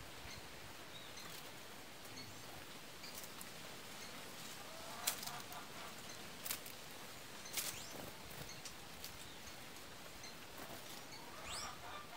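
Quiet outdoor background with scattered short, faint bird calls and a few sharp clicks, the loudest about five seconds in, then about six and a half and seven and a half seconds in.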